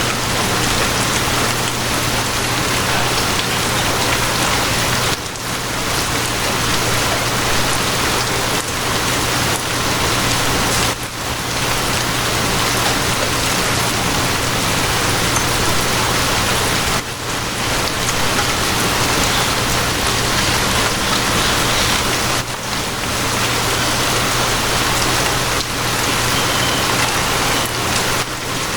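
Steady rain falling on a surface, with a constant low hum underneath. The rain's hiss dips briefly about every six seconds.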